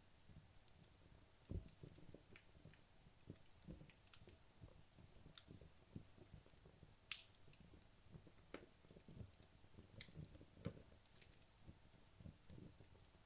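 Wood fire in a fireplace crackling faintly, with irregular sharp pops and soft low thumps from the burning logs.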